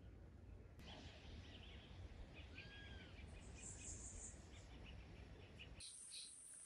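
Faint outdoor ambience of scattered bird chirps and insects over a low rumble. Near the end the rumble drops away and a steady high-pitched buzz starts.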